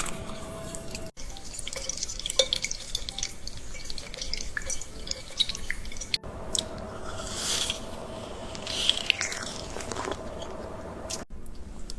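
Wet, sticky eating sounds of fruit mochi in an AI-generated mukbang: many small clicks, drips and squishes, broken by abrupt cuts about a second in, about halfway and near the end.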